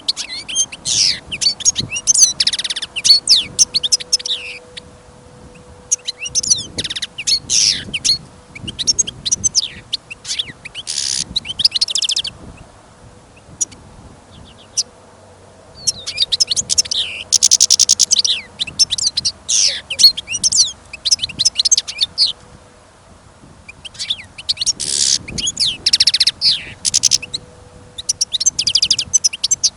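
European goldfinch singing its fast, twittering song of tinkling trills and buzzy notes. It comes in four phrases of several seconds each, with short pauses between.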